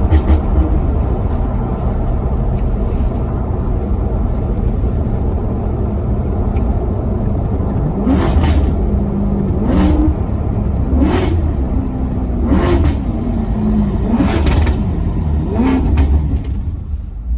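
Maserati Quattroporte Sport GT's V8 engine running at a steady rumble, then revved in about six short throttle blips, each rising and falling quickly, roughly every second and a half through the second half.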